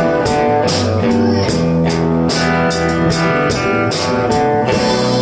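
Live blues-rock band playing an instrumental passage between sung lines: electric guitars, bass and a drum kit with steady cymbal strikes.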